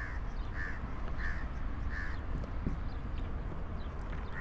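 A bird calling: four short, evenly spaced calls in the first two seconds, then a pause, over a steady low background rumble.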